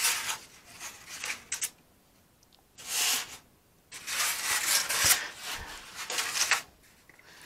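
Foam wing cores and their foam shuck rubbing and scraping as they are handled, in several separate bursts, with a short knock about five seconds in.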